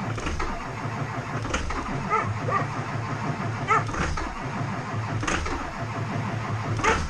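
Starter motor cranking an engine that does not catch, with a steady low chugging throughout, a no-start condition. A few short higher-pitched chirps and clicks sound over it.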